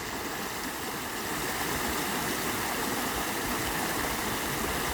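Steady rushing water, an even roar without any rhythm or tone.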